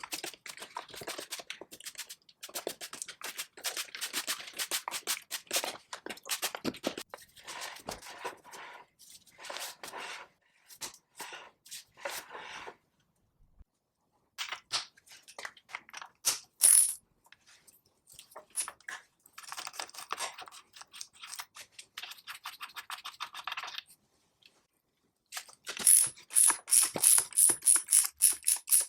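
Hand tools working on metal parts: a run of small clicks and scraping, a pause, more scraping, then near the end a quick series of sharp, bright metallic ticks like a ratchet wrench turning a bolt.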